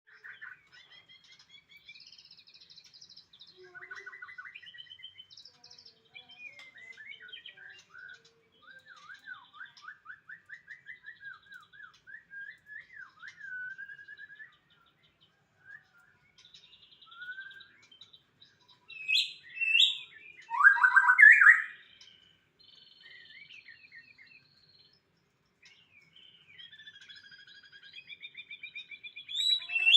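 White-rumped shama (murai batu) singing a long, varied song of whistles, rapid trills and chirps, with a few louder, sharper phrases about two-thirds of the way through.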